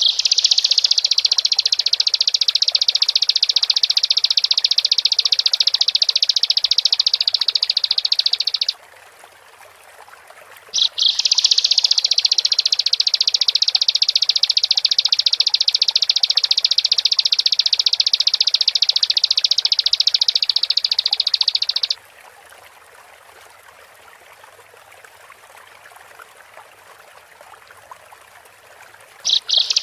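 Bar-winged prinia (ciblek) singing a high, fast trilling song in long unbroken bouts. One bout lasts about nine seconds, a second of about eleven seconds follows after a two-second pause, and a third begins near the end. A faint steady hiss fills the pauses.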